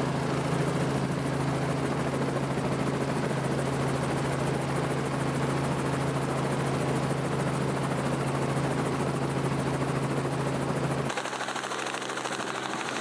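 Helicopter running steadily with a deep, even drone from its engine and rotor. About eleven seconds in, the sound changes abruptly to a thinner mechanical running sound without the deep drone.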